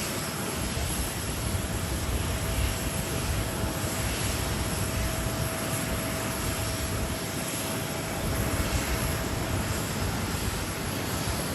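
Airbus A330-200 freighter's twin turbofan engines on approach to land in strong wind: a steady broad jet roar with a thin steady whine on top that fades out near the end. Gusty wind rumbles on the microphone underneath.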